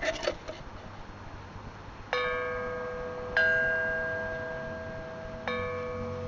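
Metal chimes struck three times, about two, three and a half, and five and a half seconds in, each strike ringing on and slowly fading. A few faint clicks come at the very start.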